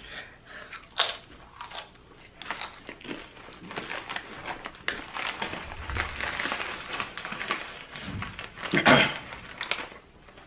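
Irregular crunching and crinkling as ghost pepper chips are eaten, with a longer rustle partway through and the loudest burst about nine seconds in.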